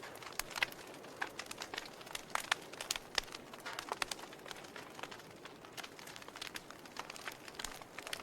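Logs burning in a fireplace, crackling with many sharp, irregular pops over a faint hiss.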